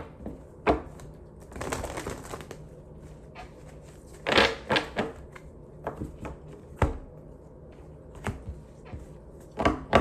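Small objects being handled on a surface: scattered clicks and taps with short rustling bursts, the loudest a little over four seconds in.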